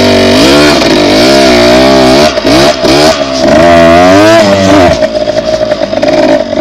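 Dirt bike engine running loud, its revs rising and falling again and again under the throttle, with a couple of brief cuts a little over two seconds in. For the last second and a half it holds a steady pitch.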